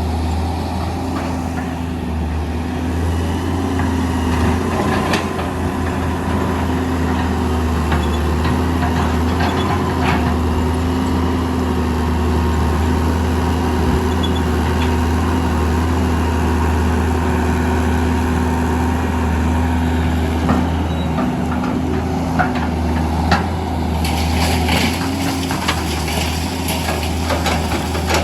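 Diesel engines of an excavator and a dump truck running steadily, with occasional metal clanks and a stretch of rattling and scraping near the end, as sand and rocks are dug and loaded.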